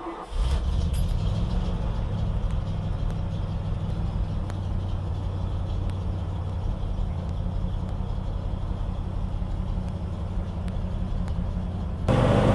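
Ford F600 truck engine catching and settling into a steady idle. Near the end the sound suddenly steps up louder and fuller.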